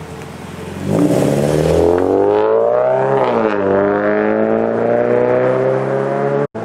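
Toyota 86 (ZN6) flat-four engine's exhaust through a straight-through, silencer-less competition rear section, revving up hard under acceleration about a second in. The pitch climbs for about two seconds, dips briefly about three seconds in, then climbs again more slowly; the sound cuts out for an instant near the end.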